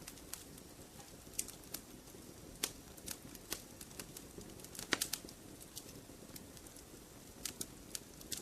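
Campfire burning: wood crackling and popping in sharp, irregular snaps over a low, steady hiss, with a quick cluster of louder pops about five seconds in.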